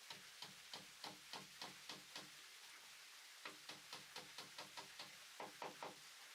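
Faint, quick tapping, about four taps a second, in two runs with a pause of about a second near the middle.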